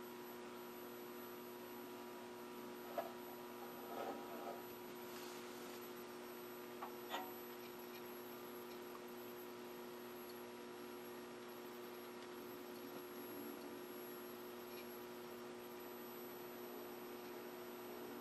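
Faint, steady electrical hum from a running vacuum-tube Philco Predicta Princess television chassis, several steady tones at once, with a few soft clicks and taps in the first seven seconds or so.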